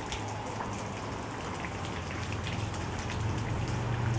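Rain falling steadily, with many separate drops ticking and pattering on a hard surface. A low hum grows louder near the end.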